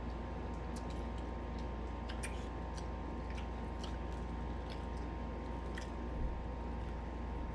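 Mouth sounds of people eating fried chicken: scattered small chewing and lip-smacking clicks, with a small thump about six seconds in. A steady low hum runs underneath.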